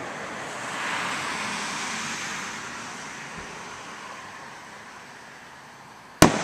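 A rushing noise like passing road traffic swells in the first second or two and slowly fades. A single sharp firework bang comes near the end.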